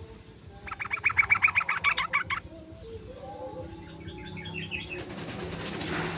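Yellow-vented bulbul (trucukan) chattering: a fast run of about a dozen clipped notes, about seven a second, then a shorter, softer run a couple of seconds later. A hiss swells near the end.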